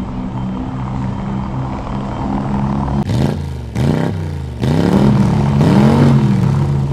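Ferrari 458 Italia's V8 running at a steady low speed, then revved in a series of throttle blips from about three seconds in, each rising and falling in pitch, several in a row.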